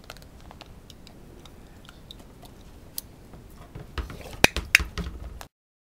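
Golden retriever chewing a treat, a run of small crunching clicks, with a few louder sharp knocks near the end. The sound then cuts off suddenly.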